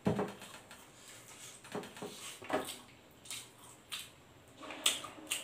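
A person chewing and lip-smacking while eating fried chicken and rice, a string of irregular wet mouth clicks and smacks about a second apart.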